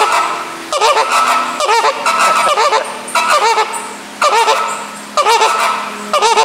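Flamingos honking: loud, goose-like nasal calls in short clusters, repeating about once a second.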